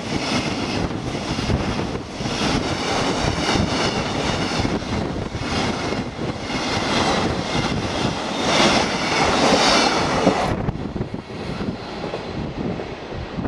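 Container flat wagons of a freight train rolling past at speed: a steady wheel-on-rail roar with rapid clacking of the wheels. About ten and a half seconds in the last wagon goes by and the sound drops suddenly to a fainter rumble of the receding train.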